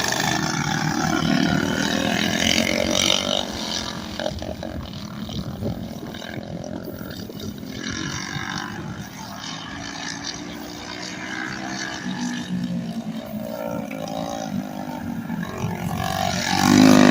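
Racing small engines running on a kart track, their pitch rising and falling as they rev and go by. Loudest about two to three seconds in and again near the end.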